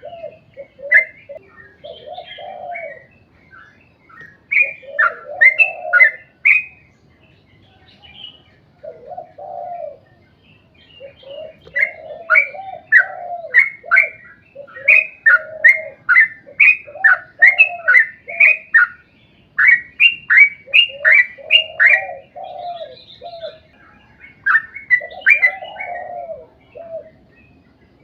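Yellow-vented bulbul (trucuk) singing a long run of short bubbly phrases, low and high notes alternating, in bursts with brief pauses between them.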